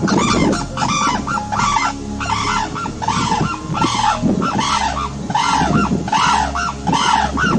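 Sarus cranes calling: a run of repeated trumpeting calls, about two a second, each call rising and falling in pitch.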